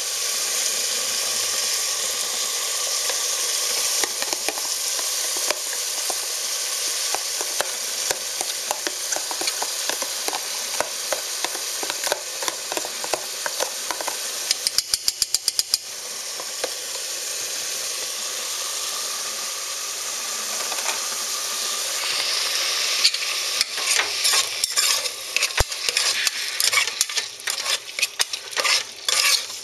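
Chopped onion and tomato sizzling in hot oil in the inner pot of a Mondial Pratic Cook electric pressure cooker, a steady frying hiss. About halfway there is a quick run of sharp clicks, and in the last quarter a spoon scrapes and knocks against the pot as the mixture is stirred.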